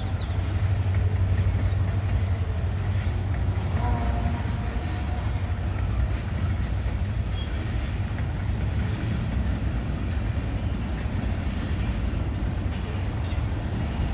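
Freight train cars rolling past in a steady, heavy rumble of wheels on rail.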